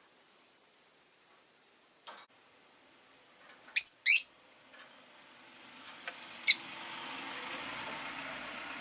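Rosy-faced lovebirds giving two loud, shrill calls in quick succession about four seconds in, then a shorter third call about two seconds later. A soft click comes before the calls, and a rushing noise swells through the second half.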